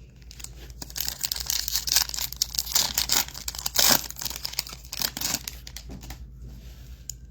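A foil trading-card pack wrapper being torn open and crinkled by hand, a run of crackling rustles.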